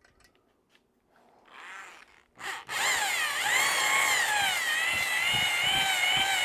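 Electric drill spinning a cylinder hone in an outboard's cylinder bore, working the top of the bore to open it up toward a 5-thousandths clearance. After two short blips it runs continuously from about three seconds in, its whine wavering at first, then holding a steady pitch.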